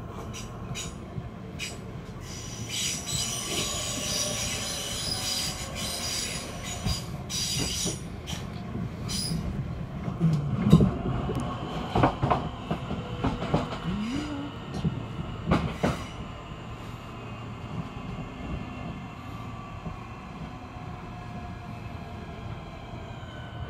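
Southeastern Class 465 electric multiple unit heard from on board as it runs and slows to a stop: wheels clack irregularly over rail joints and points, with a high wheel squeal in the first part. In the second half a whine slowly falls in pitch as the train brakes into the station.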